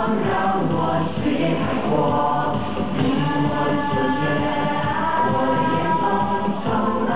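Music with a choir of voices singing, the notes held long through the middle.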